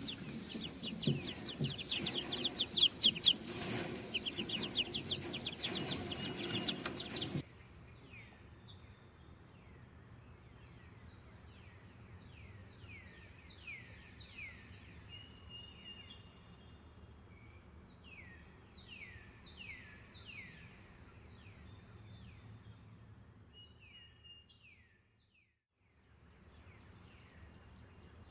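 Forest birdsong. A loud, busy chorus of many birds chirping cuts off abruptly about seven seconds in. A quieter stretch follows: a bird repeats short falling whistled notes about once a second over a steady high thin tone. Near the end the sound fades out and comes back.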